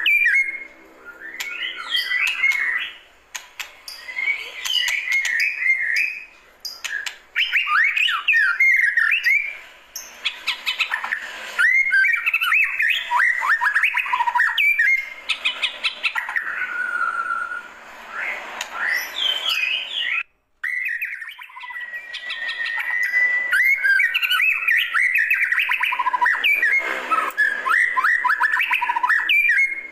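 White-rumped shama (murai batu) singing: phrase after phrase of varied whistles, rapid chirps and trills, the song cutting out abruptly for a moment about twenty seconds in.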